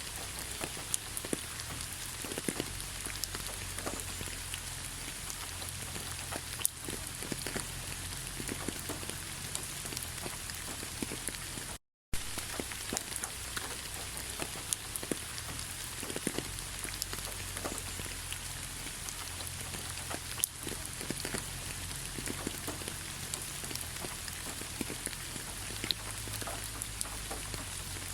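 Steady rain falling, a constant hiss dotted with the ticks of single drops, over a faint low rumble. It cuts out completely for a split second about twelve seconds in, where the loop restarts.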